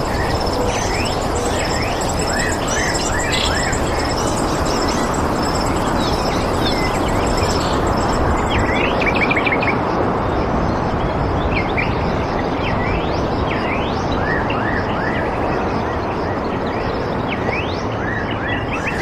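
Birds chirping in many short, quick rising calls over a steady rushing background noise, with a thin, high pulsing tone running underneath.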